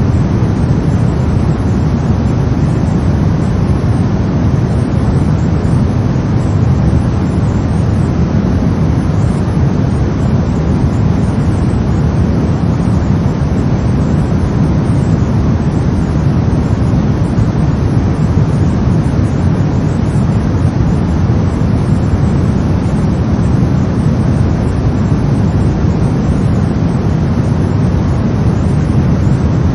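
Brown noise: a steady, deep rumbling hiss, strongest in the bass and falling away toward the treble, with no changes or events.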